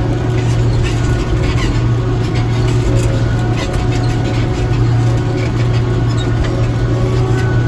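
Small tractor engine running steadily under way, a constant low drone with faint short ticks over it.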